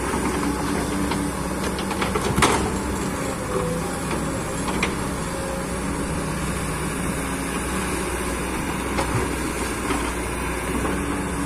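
Excavator's diesel engine running steadily under hydraulic load while lifting a boulder of about one ton, with a few short knocks, the sharpest about two and a half seconds in.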